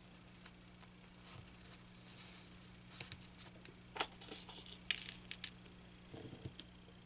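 Crinkly clicks and rustles of fabric being pinned into a styrofoam board, a quick cluster a little past halfway and a few softer ones near the end.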